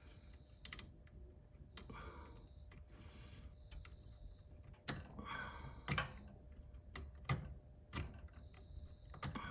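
Scattered sharp plastic clicks and short rustling scrapes from hands handling the floppy drive's small wire connectors, with one louder click a little past the middle.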